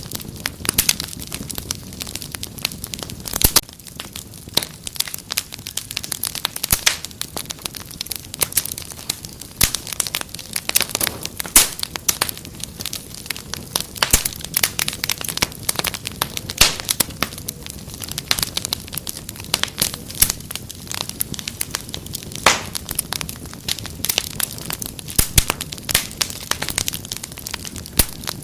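Crackling wood fire: dense, irregular sharp pops and snaps over a low steady hiss.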